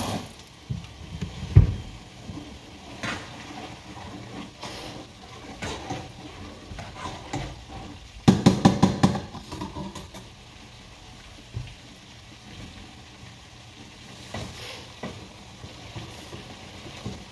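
Curry-seasoned chicken wings frying in a frying pan with a steady sizzle. Kitchen handling noises sit over it: a thump about a second and a half in and a quick run of rapid knocks or rattles about halfway through.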